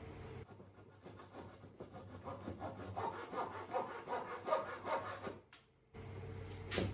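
Hand saw cutting through a small piece of wood in quick, short, even strokes. It starts about half a second in, grows louder, and stops about five and a half seconds in.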